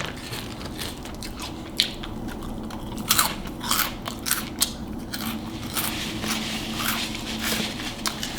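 Close-miked chewing of Hot Cheetos noodles, with irregular sharp crunches of the Cheetos coating coming thickest from about three seconds in.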